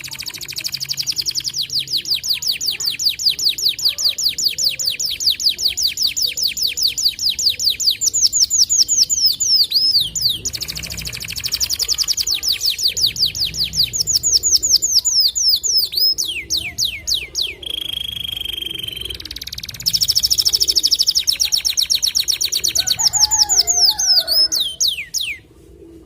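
Domestic canary singing long, rapid trills of quickly repeated sweeping notes, with one held whistled note about two-thirds of the way through. The song breaks off shortly before the end.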